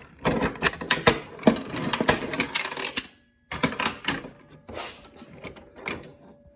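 Dense clicks, knocks and rattles of the table saw's metal and plastic blade-guard parts being handled and snapped into place. After a brief break about halfway, the clicks come sparser.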